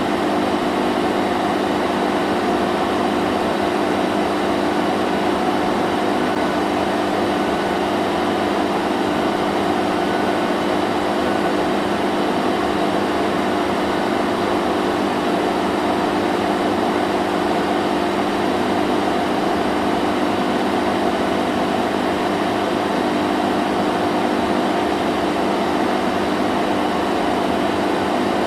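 Vacuum cleaner running steadily: a constant motor hum with an airy rushing noise, unchanging in pitch and level.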